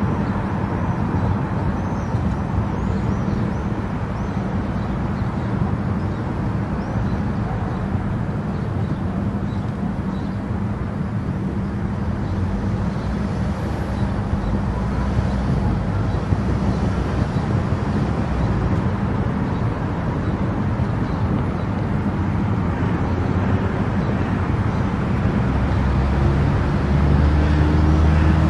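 Car driving at highway speed: steady road, tyre and engine noise. It swells near the end with a louder low rumble and a slowly rising hum.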